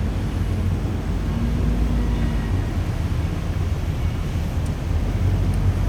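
Water taxi's motor running steadily, a low even drone with water and wind noise over it.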